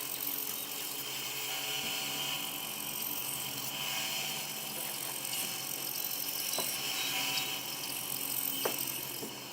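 Power saw running steadily through a cedar board, a steady hiss with a motor hum beneath, stopping near the end.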